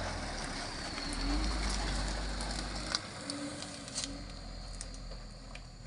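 A dove cooing softly, two short coos about a second and three seconds in, over a low steady engine rumble.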